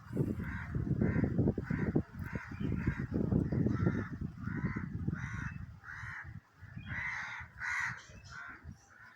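A bird calling over and over, about two short calls a second, over a low rumble that is loudest in the first half.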